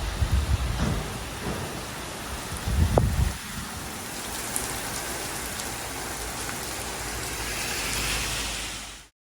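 Heavy rain falling in a steady hiss, with low rumbles in the first second and again around three seconds in. The rain grows louder near the end, then cuts off suddenly.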